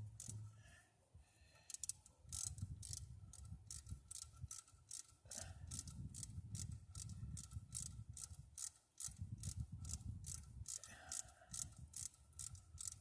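Hand ratchet wrench clicking in a quick, even run of strokes as bolts are turned on an engine being reassembled. It starts about two seconds in and pauses briefly once.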